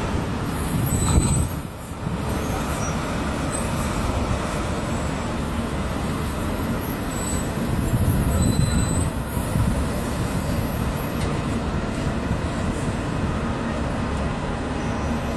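Steady rumble of street traffic and idling heavy vehicles, swelling louder about a second in and again around eight seconds.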